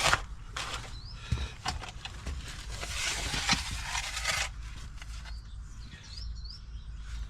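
Rustling and scuffing, as of someone squeezing into a cramped spot, loudest about three to four seconds in, with a few faint bird chirps.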